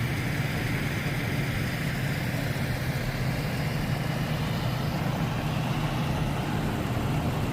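A vehicle engine running with a steady low hum, unchanging throughout.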